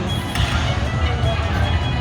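Slot machine's electronic bonus-round music and chiming jingle tones over a low casino-floor din, with a short sharp hit about a third of a second in.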